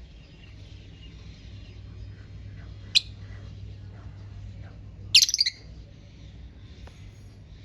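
Lovebirds chirping: one sharp, shrill chirp about three seconds in and a louder quick run of shrill chirps about five seconds in, over faint scattered chirps and a low steady hum.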